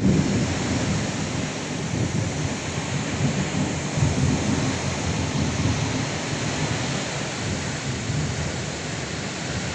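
Strong wind and rain in a thunderstorm: a steady rushing hiss with gusts rumbling low on the microphone, strongest in the first few seconds and easing slightly toward the end.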